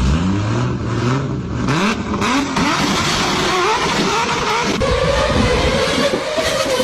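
A vehicle engine revving, its pitch rising in repeated sweeps, then holding a steadier, higher note from about five seconds in.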